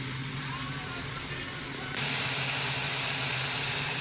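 A steady hiss that gets louder and brighter about two seconds in.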